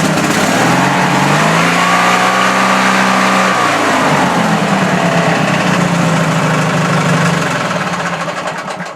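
Wheel Horse garden tractor engine running after a cold start. It revs up about a second in, holds the higher speed for a couple of seconds, then drops back to a steady run. Near the end it fades out and stops.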